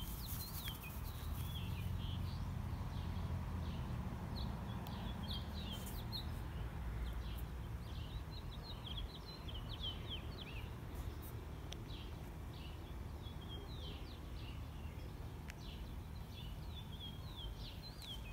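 Small birds chirping in short, repeated high calls, over a steady low rumble.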